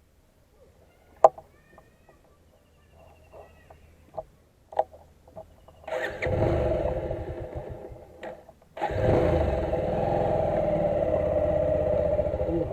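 A few scattered clicks and knocks, then a motorcycle engine starts about halfway through. It dips briefly, picks up again and runs steadily.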